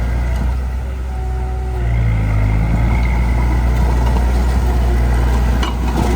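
Heavy diesel engine of earth-moving equipment running steadily, its pitch and level dipping briefly and then rising again about two seconds in as load changes. A single sharp click comes near the end.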